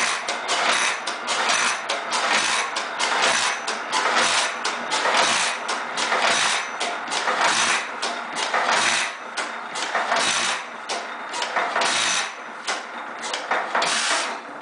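1923 Witte 15 hp hit-and-miss stationary engine running, with a steady rhythmic beat of sharp firing and valve strokes.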